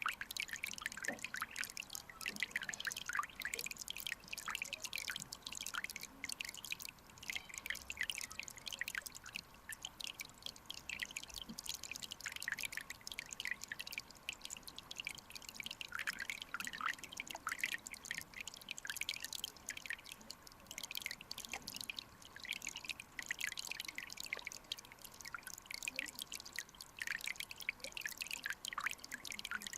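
Mountain stream water heard from under the surface: a constant patter of small bubbling, dripping plinks, some dropping quickly in pitch, with no deep rush.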